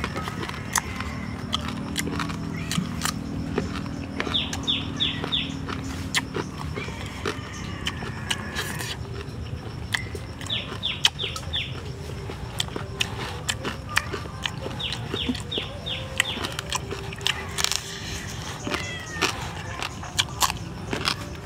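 Close-up chewing and crunching of crispy grilled frogs: many sharp crunches and clicks. Birds chirp in the background, a few quick runs of four or five falling notes.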